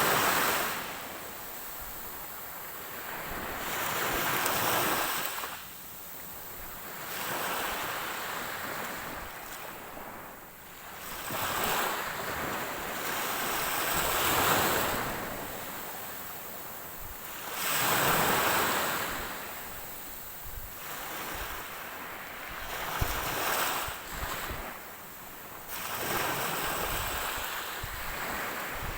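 Ocean waves breaking on a shore, the surf swelling and washing back every few seconds.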